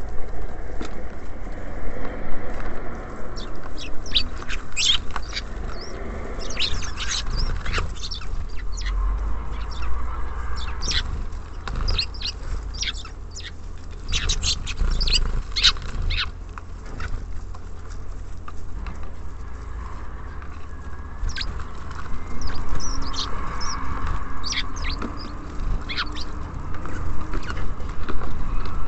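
Small songbirds such as tits and sparrows at a bird feeder, making a scatter of short, sharp chirps and taps in clusters, over a steady low rumble.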